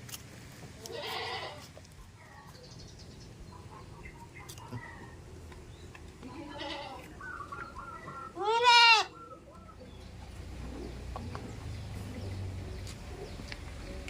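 Goats bleating: a hoarse bleat about a second in, a fainter one near the middle, then a loud, clear bleat that rises and falls in pitch. A low rumble fills the last few seconds.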